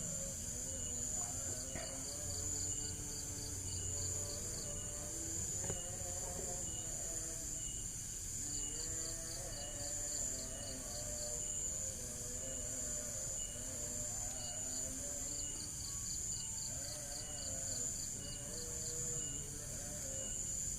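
Insects chirping: a steady high drone, bursts of rapid trilled pulses coming and going every few seconds, and an even ticking chirp about twice a second. A faint wavering pitched sound rises and falls beneath them.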